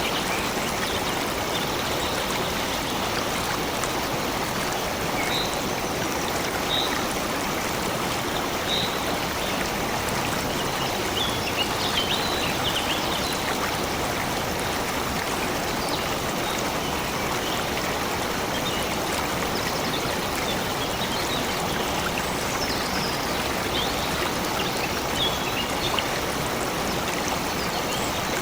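Flowing stream running steadily, with short high bird chirps scattered over it, several close together around the middle and again near the end.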